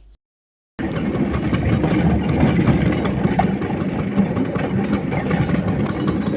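Single-cylinder Lister D engine running steadily on a homemade narrow-gauge locomotive, starting abruptly after a brief moment of dead silence near the start.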